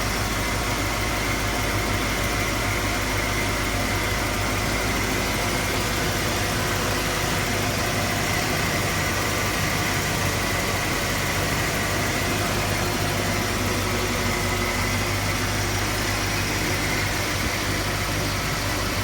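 Ford Bronco's engine idling steadily, warming up after a cold start.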